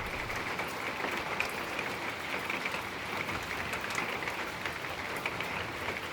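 Rain falling steadily, a dense even hiss of many small drop impacts.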